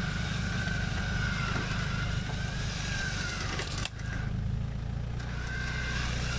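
Off-road 4x4 engine running steadily at low revs, with a thin high whine above it. About four seconds in the sound breaks off sharply for a moment and the engine note comes back steadier.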